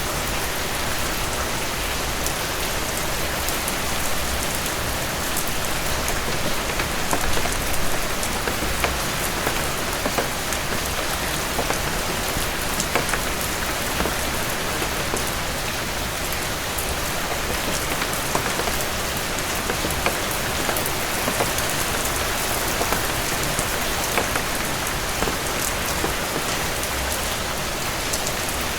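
Heavy rain falling on a cabin porch: a steady, dense hiss with many small sharp ticks scattered through it.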